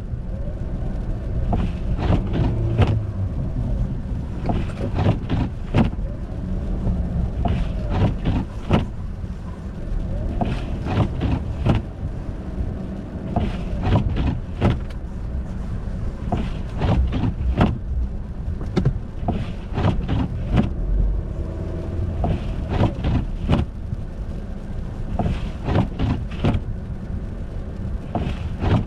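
Car driving on an icy, snowy road: a steady low rumble with frequent short sharp knocks and crackles.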